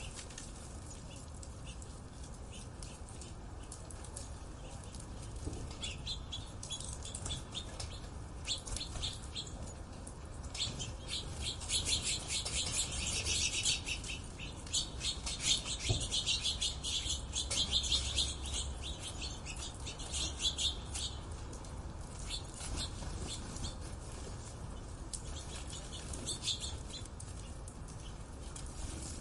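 A flock of small birds chirping, many short high chirps in quick succession that grow dense and loud in the middle, over a low steady background rumble.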